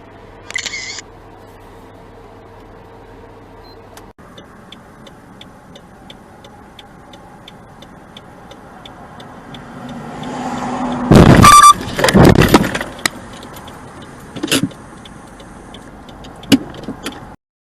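A car crash: a rising rush of noise as a vehicle closes in, then two loud crunching impacts about eleven seconds in, followed by a few smaller knocks. Before it, a steady ticking runs at about two to three a second.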